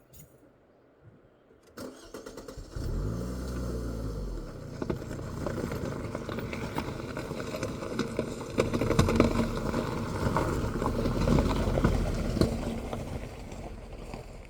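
An engine starts about three seconds in, its pitch rising and falling once, then runs on steadily with clicking and rattling.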